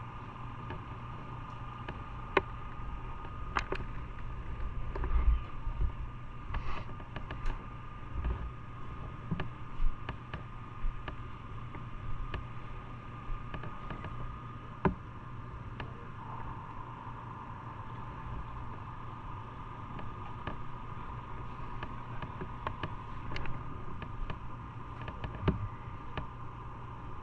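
A steady machine hum with a faint high whine, broken by scattered clicks and knocks.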